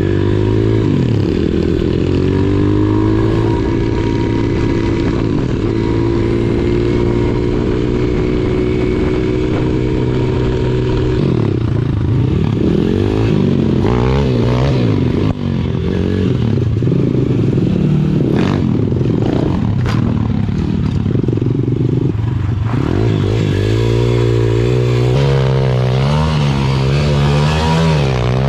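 Small single-cylinder four-stroke pit bike engines running on the move: held at a steady pitch for the first ten seconds or so, then the throttle opens and closes repeatedly, so the engine note rises and falls.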